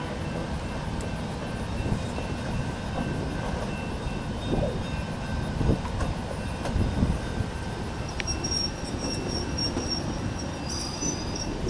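Nebraska Zephyr's stainless-steel passenger cars rolling slowly on a curve: a steady rumble of wheels on rail with a few low knocks about halfway through, then thin, high flange squeal from the wheels starting about two-thirds of the way in.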